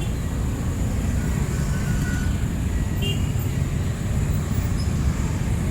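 City street traffic: a steady low rumble of passing vehicles, with a thin steady high whine over it.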